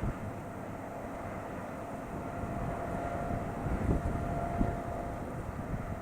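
Steady drone of a jet airliner's engines with a faint steady whine, and a couple of low thumps near the middle.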